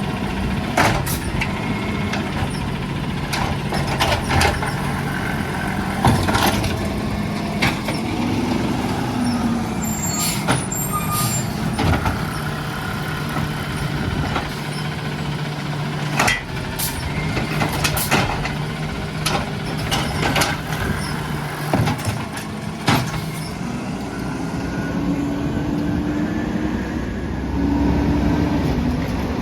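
Peterbilt 320 garbage truck running, its engine revving up twice, around eight seconds in and again from about twenty-four seconds, with repeated sharp bangs and clanks throughout.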